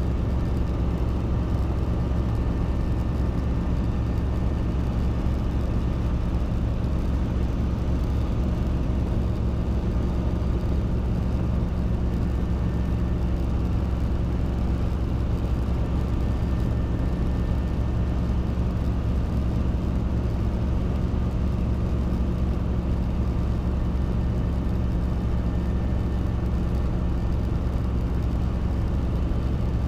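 Robinson R22 helicopter in flight: a steady drone of engine and main rotor, unchanging throughout.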